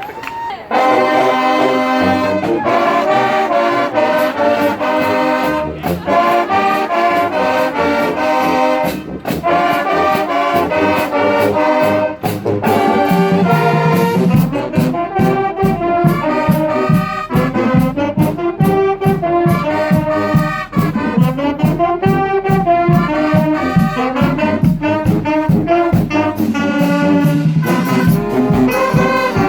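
Marching band playing a brass tune, with drums keeping a steady beat. The band comes in loud about a second in.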